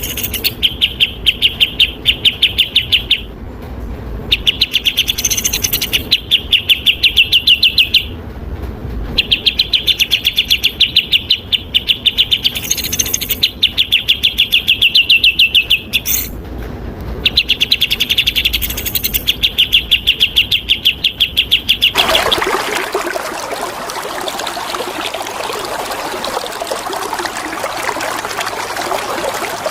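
A songbird singing fast trills of rapidly repeated high notes, in phrases of about three seconds broken by short pauses. About twenty-two seconds in the song stops and the steady sound of running water takes over.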